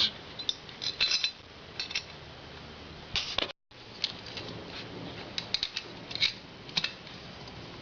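Scattered light clinks and taps of small steel parts: valve springs and spring collars being handled and fitted onto a Harley-Davidson Sportster Evolution cylinder head.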